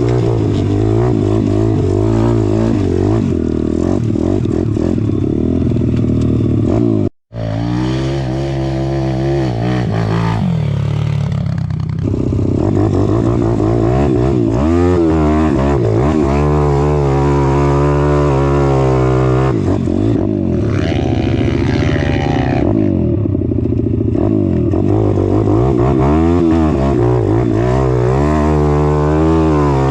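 Pit bike engine being ridden hard, its pitch rising and falling over and over as the throttle is blipped and released. The sound cuts out for a split second about seven seconds in.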